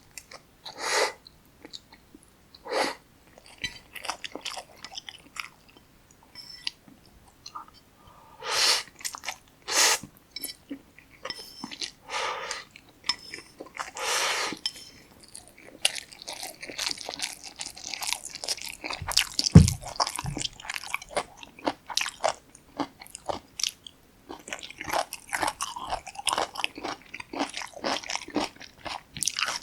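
Close-miked eating of Jjapaghetti black bean noodles. In the first half there are separate loud bursts of biting and slurping; from about halfway there is steady, dense wet chewing and crunching. A single low thump comes about two-thirds of the way in.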